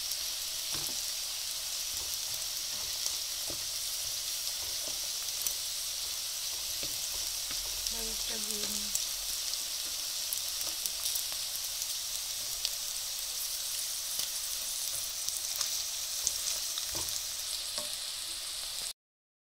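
Breaded cassava sticks deep-frying in oil: a steady, high sizzle with scattered light clicks as a slotted spoon stirs them. The sound cuts off abruptly near the end.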